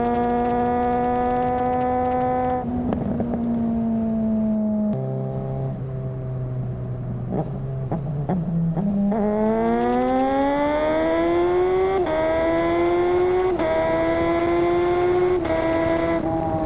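Suzuki GSR600's inline-four engine through a GPR Ghost exhaust, under way on the road. The revs hold steady at first, then drop off to a low pitch around the middle with a few sharp pops. From about nine seconds in it accelerates, rising in pitch, with three quick upshifts near the end, each a brief dip in pitch before it pulls again.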